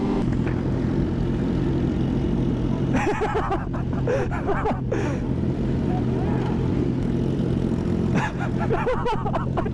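Superbike engine running at a steady cruise, with wind and rain rushing over a helmet-mounted microphone. Brief snatches of voices come in around the middle and near the end.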